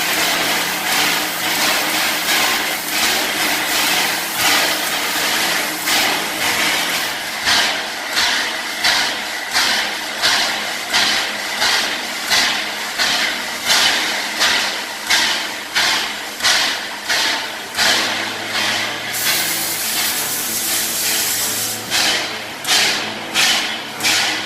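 Nevada Northern Railway's steam locomotive No. 93 working, its exhaust chuffing in a regular beat that gradually quickens. About three-quarters of the way through, a steady hiss of steam runs for a few seconds.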